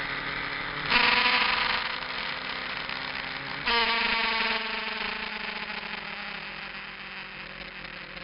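Kawasaki GPZ900R's inline-four motorcycle engine running, heard on board. It gets suddenly louder about a second in and again past halfway, then eases off each time, its pitch sagging slightly.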